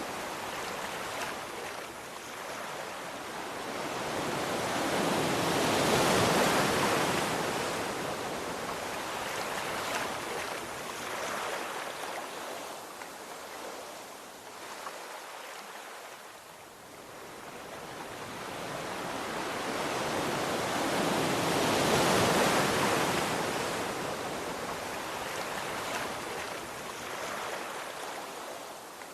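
Sea waves breaking and washing on a shore: two slow swells of surf, the first cresting about six seconds in and the second near the two-thirds mark, with a quieter lull between them.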